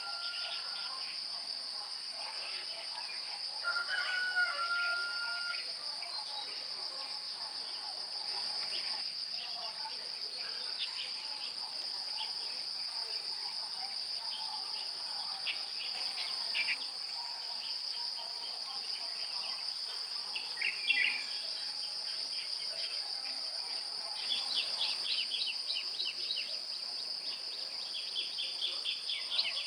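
Insects trilling steadily at a high pitch, with scattered bird chirps and a quick run of chirps near the end.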